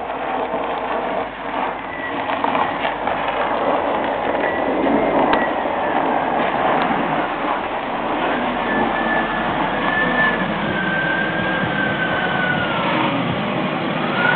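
2003 Mazda Protege5's 2.0-litre four-cylinder engine running steadily as the car pulls in, with a faint whine that wavers and drifts down in pitch in the second half.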